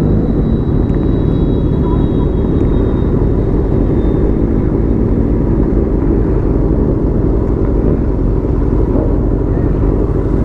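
Royal Enfield Continental GT 650's parallel-twin engine running steadily under way, heard from the rider's mount with wind noise blowing over the microphone.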